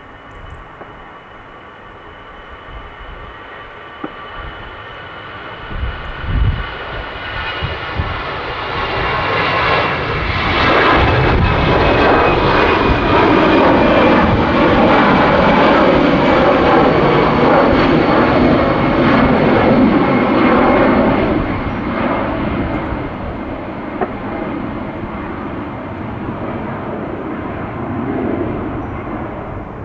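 Airbus A320-214 with CFM56 jet engines at takeoff power, building up to its loudest about a third of the way in and easing off after two-thirds. A steady engine whine runs over the jet noise and slides slightly down in pitch as the airliner goes past.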